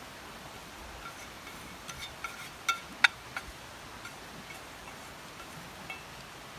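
A cluster of light clicks and clinks with a short ringing, bunched from about two to three and a half seconds in, the sharpest just after three seconds, over a steady rain-like hiss.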